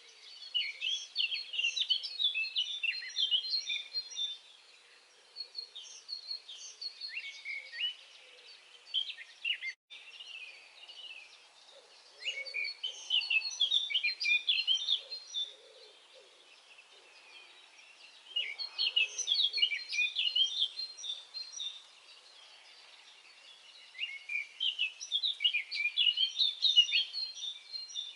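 Songbirds singing at dawn: phrases of rapid high chirps and trills, each a few seconds long, with short pauses between them.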